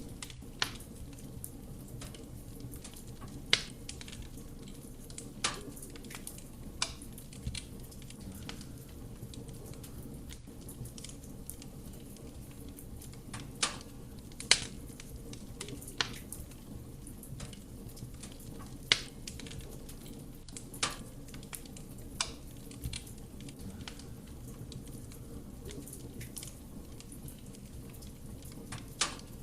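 Wood fire burning in a fireplace: the flames make a steady low rumble, and the logs crackle with about a dozen sharp, irregular pops.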